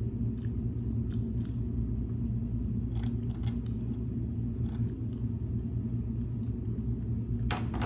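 A person chewing and biting food, with scattered small clicks and crunches, over a steady low rumble.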